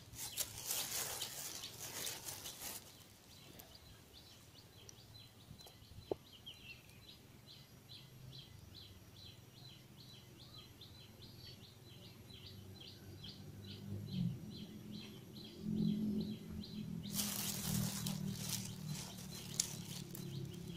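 Outdoor ambience with a bird chirping in a steady run of short high notes, about three a second. Bursts of noise come near the start and again near the end, and a low hum builds in the second half.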